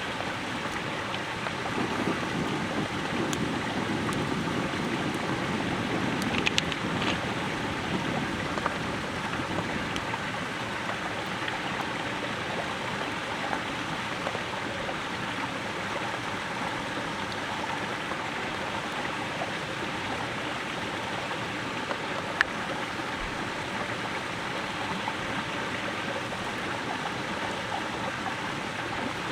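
Steady rushing water noise with a few faint clicks, a little fuller between about two and eight seconds in.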